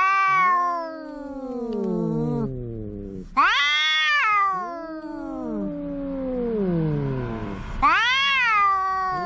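Tomcats caterwauling in a standoff before a fight: long, loud yowls that start high and slide down in pitch, three times, with voices overlapping.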